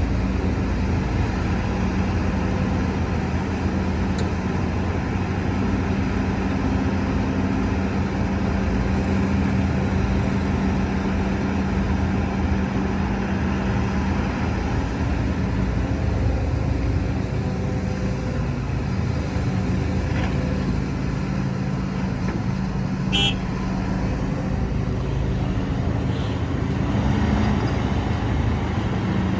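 Heavy diesel earthmoving machinery running steadily under load, a continuous engine drone with a strong low hum. About two-thirds of the way through comes one brief, sharp, high-pitched sound.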